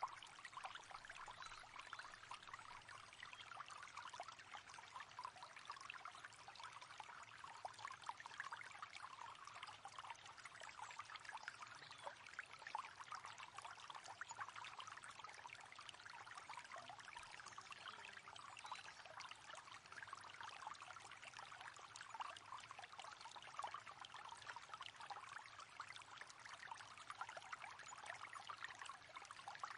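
Faint, steady babbling of a shallow river running over stones, a continuous trickling and splashing.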